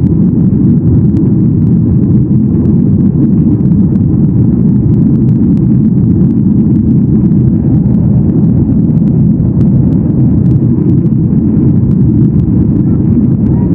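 Steady, loud cabin noise inside a Boeing 737-800 in flight: the low rumble of the engines and airflow heard from a window seat, even and unbroken.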